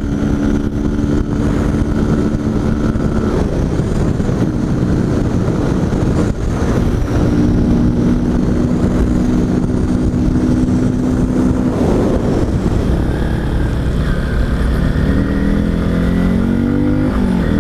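Honda Bros 160 single-cylinder engine running on the road with the cap of its air-filter box cover removed, so the intake is louder. The engine note holds steady, drops away about three seconds in, returns, and rises in pitch near the end as it accelerates.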